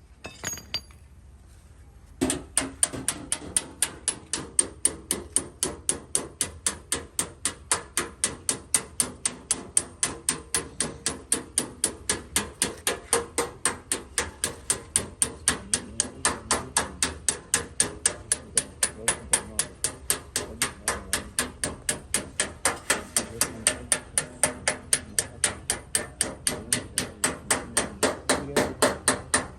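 Paintless dent repair on a car body panel: a hammer and tap-down tool knock the panel in a steady run of light metallic taps, about three or four a second, starting about two seconds in. The taps work the dent's high spots down one beside the next, over dried polish that shows where each tap lands.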